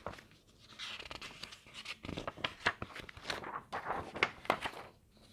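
Paper pages of a book being leafed through by hand: a string of short rustles and flicks over about five seconds.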